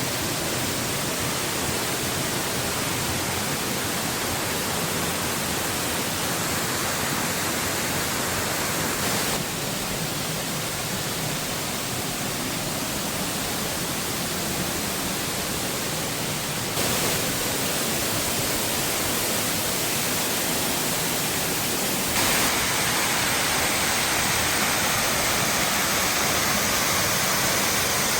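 Waterfall's steady rushing roar, an even hiss of falling water with no tone in it. Its level and tone change abruptly about a third of the way in, again past halfway, and once more about three quarters in.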